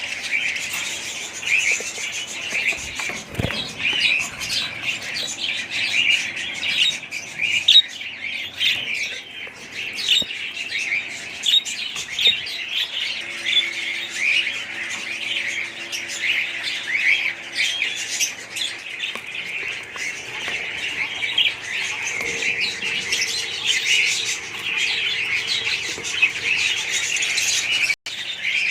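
Budgerigars chattering and chirping, many short calls overlapping in a continuous flock chatter.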